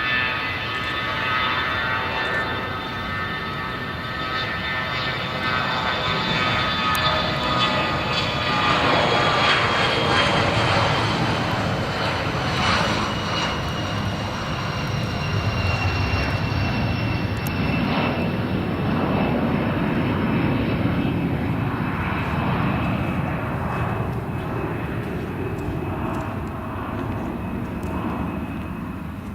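Bombardier Challenger 605 business jet's two GE CF34 turbofans at takeoff power, a loud jet noise with several whining tones that slide slowly down in pitch as the jet goes past. Loudest about ten seconds in, then slowly fading as it moves away.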